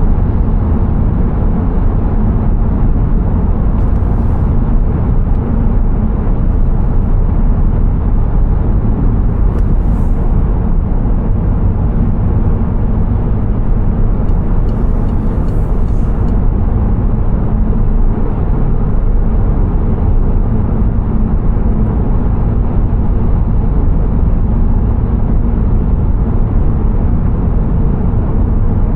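Steady low rumble of a car driving: road and engine noise, continuous and even, with a few faint brief hisses.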